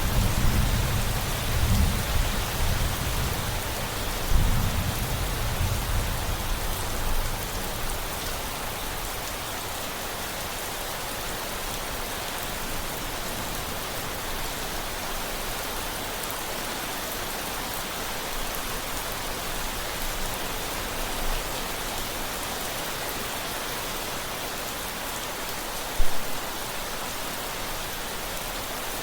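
Steady rain, with a low rumble of thunder through the first several seconds that dies away. A single short thump near the end.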